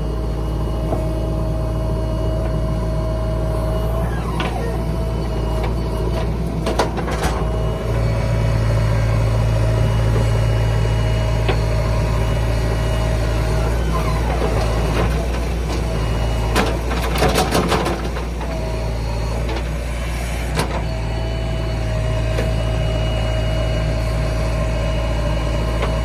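Tractor engine running steadily with a constant whine above it, and a few short clattering knocks about a quarter of the way in and again past the middle.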